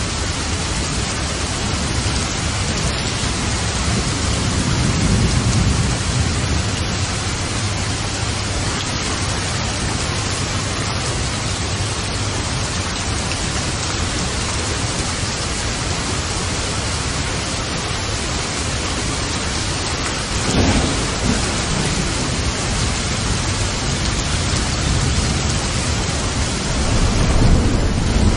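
Steady, heavy rain with rolls of thunder. A low rumble swells a few seconds in, and another builds near the end.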